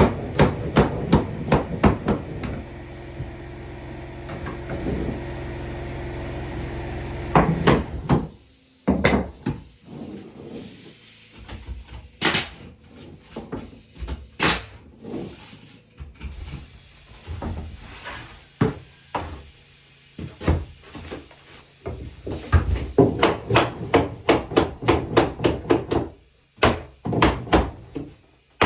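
Hammering on wood: quick runs of several blows a second at the start and near the end, with scattered single strikes in between. A steady hum runs for about five seconds, starting a few seconds in.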